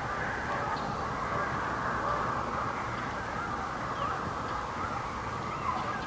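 Many birds calling at once in a steady, overlapping chorus over a low rumble.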